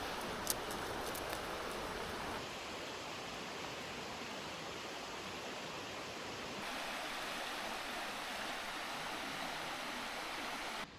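Mountain river flowing, a steady rushing murmur, with a light click about half a second in. It cuts off suddenly near the end.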